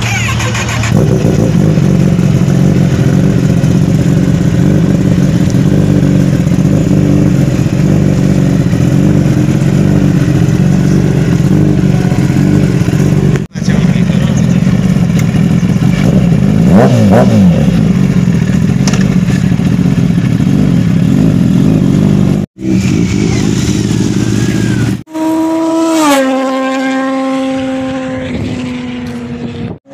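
Motorcycle engine running at steady speed under heavy riding noise, cut off abruptly a few times. Near the end, a motorcycle's engine note drops in pitch as it slows.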